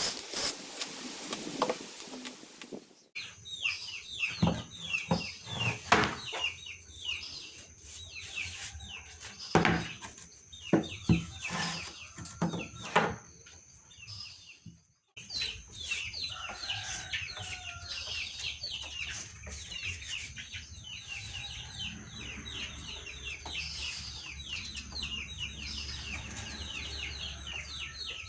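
Chickens clucking and small birds chirping throughout. Several sharp knocks, the loudest sounds, come in the first half, and a low steady hum sets in about halfway through.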